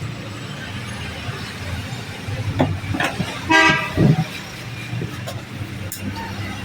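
A short vehicle horn toot a little past halfway, over a steady background of road traffic, with a few clicks and a low knock around it.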